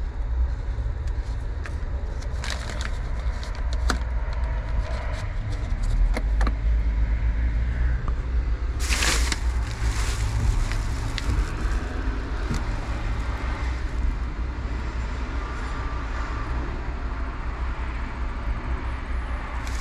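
Steady low outdoor rumble, with scattered light clicks and a short rush of hiss about nine seconds in.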